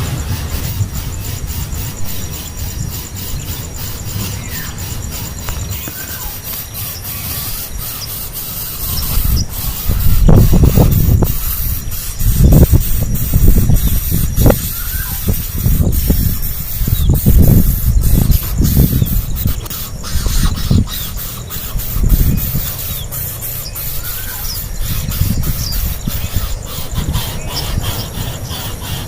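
Five-day-old nestling birds squeaking as they beg during hand-feeding, faint high chirps over many small clicks. From about ten seconds in, louder low bumping and rubbing of handling comes and goes for some twelve seconds.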